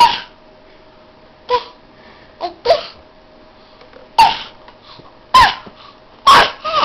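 A baby making short, sudden squeals and breathy babbling noises, about eight quick bursts with little rises and falls in pitch.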